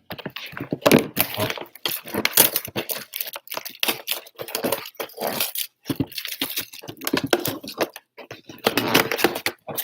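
A sealed box of football trading card packs being torn open by hand: wrapping and cardboard tearing and crinkling in a quick, irregular string of crackles and rustles.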